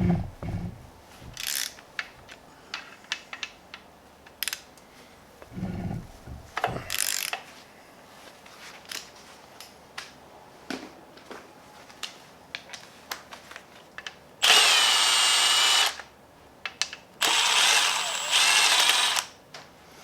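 Metal tools clinking and knocking on an engine. Near the end, a cordless power tool spins in two runs of about a second and a half and two seconds, with a steady whine, running off the connecting rod cap bolts of the next cylinder.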